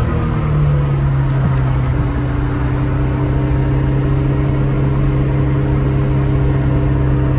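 1970 Porsche 911S's air-cooled flat-six running at a steady, near-constant engine speed while driving, heard from inside the cabin.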